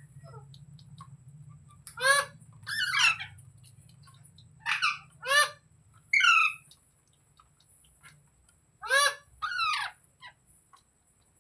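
Parrot calling: about seven loud, short calls, each falling in pitch, coming in small clusters with pauses between.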